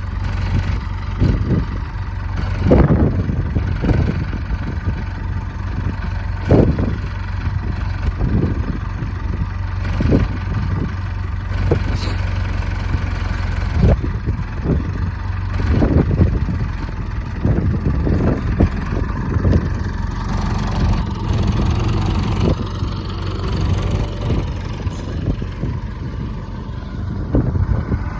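Case IH 4210 tractor's diesel engine idling steadily, with irregular low thumps every second or two.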